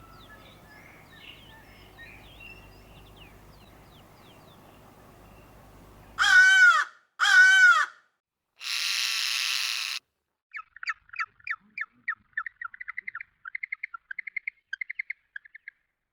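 Bird calls. Faint chirping birdsong over a low hum, then an abrupt change to two loud harsh calls, a raspy hissing call, and a long series of short chirps that quicken into a trill.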